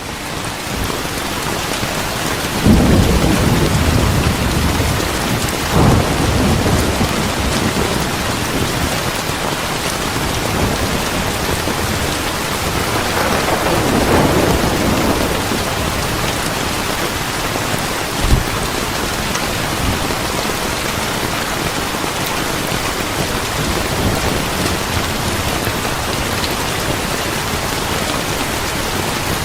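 Steady heavy rain hissing, with thunder rolling through it: low rumbles about three seconds in, again around six seconds, a longer swell around thirteen to fifteen seconds, and a short sharp thud at about eighteen seconds.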